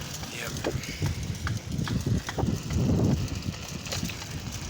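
Bicycle riding along a park path: an uneven low rumbling and knocking, with a few short high chirps.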